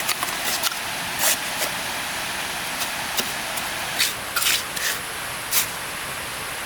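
Steady rushing of flowing stream water, with irregular sharp knocks or clicks scattered through it.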